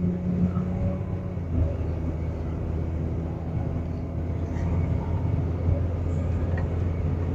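2008 Ford F450's 6.8-litre V10 running with a steady low drone, heard from inside the cab while the truck is driving, with road noise under it.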